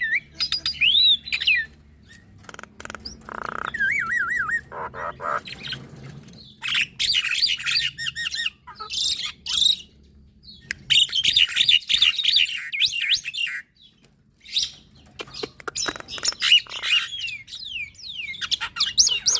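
Javan myna and black-winged myna singing in a duet: bursts of busy chattering, whistled notes sliding up and down, and sharp clicks, broken by short pauses between phrases.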